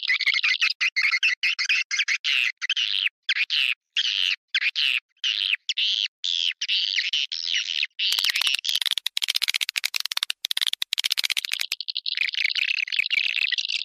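Swiftlet lure call recording: rapid, chattering twitters of swiftlets, cut into short bursts. From about 8 s to 12 s it turns into a fast run of dry clicks. It is the kind of calling sound played to draw swiftlets into a nesting house.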